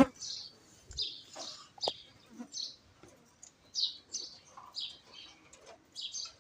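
Parrot chirping: short, high chirps repeated every half second or so, with a few sharp clicks among them.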